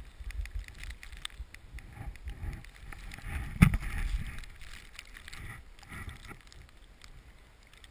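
Snowboard sliding through powder snow: a soft hiss of snow over a low rumble of wind buffeting the microphone, with one sharp thump about three and a half seconds in.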